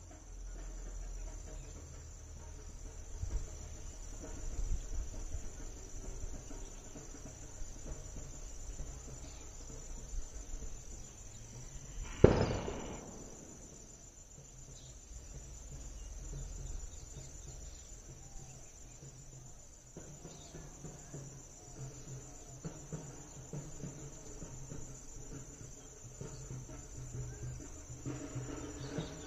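Insects chirring in a steady high-pitched band. A single sharp, loud knock about twelve seconds in.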